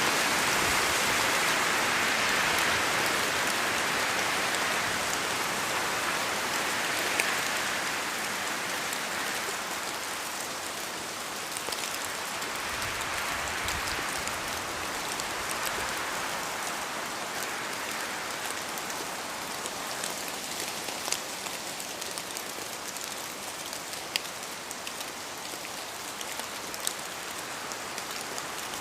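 Steady rain falling in a forest, with scattered louder single drops hitting close by. The hiss of the rain swells and eases slowly and grows somewhat quieter over the first dozen seconds.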